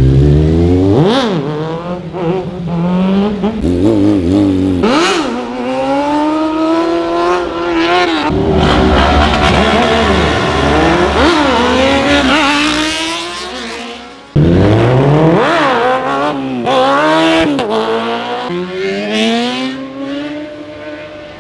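Sport motorcycle engines revving hard and accelerating one after another, the pitch climbing and dropping back with each gear change. The sound jumps abruptly several times, most clearly about 14 seconds in.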